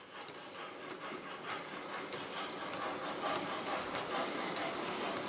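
Model train running on the layout's track, a steady rolling rattle with faint ticks that grows louder over the first few seconds and then holds.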